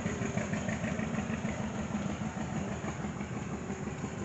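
An engine idling steadily, with an even, rapid firing beat.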